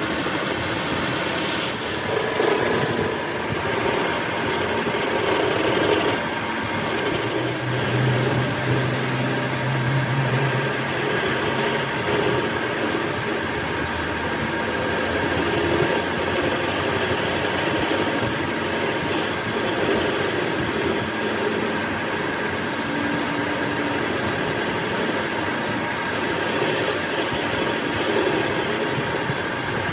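Workshop machinery running steadily: a dense, even mechanical noise with a few steady hums, and a lower hum for a few seconds near the middle.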